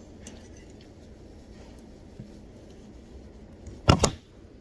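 Low, steady background with faint small scrapes, then two sharp knocks in quick succession about four seconds in.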